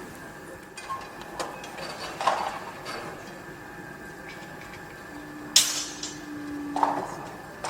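Construction-site noise: irregular metallic clanks and knocks over a steady background hum. There is a sharp hissing burst about five and a half seconds in, and a brief low steady tone near it.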